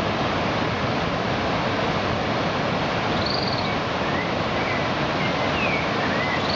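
Steady rushing noise of ocean surf and wind, with a few short bird chirps from about three seconds in.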